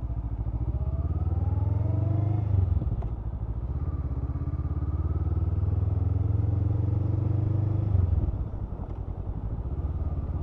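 Honda CMX500 Rebel's parallel-twin engine running under load, heard from the rider's seat. Its pitch climbs, then drops sharply about two and a half seconds in, climbs again, and drops again about eight seconds in.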